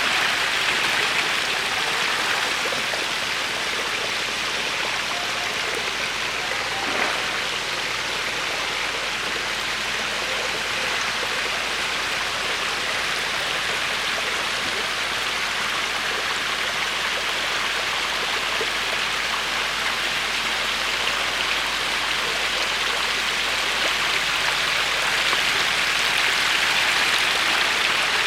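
Steady rushing, splashing water in a catfish farming tank, with a single light tap about seven seconds in.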